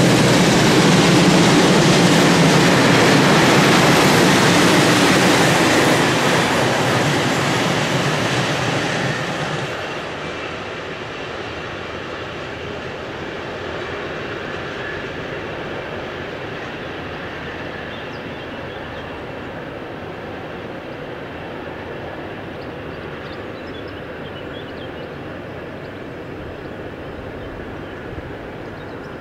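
Freight train of sliding-wall boxcars and car-transport wagons rolling past on steel rails, loud for the first several seconds. The noise drops off about ten seconds in as the last wagons pass and the train moves away, leaving a quieter steady rumble.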